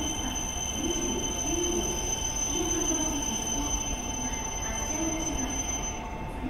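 JR East E7 series Shinkansen pulling slowly into the platform, with a steady electrical whine made of several high, even tones. The highest of these tones cuts off near the end as the train slows to a halt.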